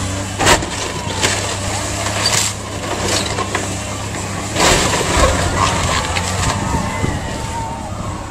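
Demolition of a building: a heavy machine's engine running steadily, with sharp cracks and crashes of breaking material several times, loudest about half a second in and again near the middle.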